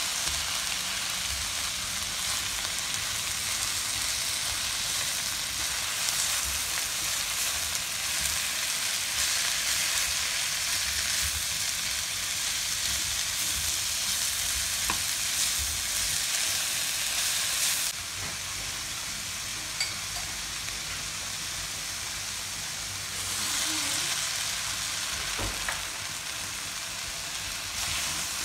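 Shredded cabbage, peppers and chicken sizzling in a nonstick wok-style pan as they are stirred and tossed with a spatula, with a few faint clicks. The sizzle drops lower for a few seconds about two-thirds of the way through, then comes back up.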